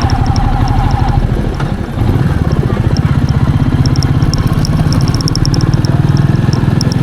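Royal Enfield Meteor 350's single-cylinder engine running with an even low pulse, dropping briefly about two seconds in before picking up again. Light high ticks come and go over it.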